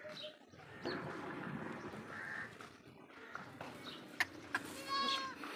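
Birds calling over faint rustling, with a short harsh call near the end.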